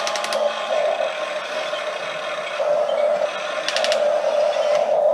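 Radio-controlled toy excavators' small electric motors whining steadily as they dig, with two quick runs of rapid clicking, right at the start and about four seconds in.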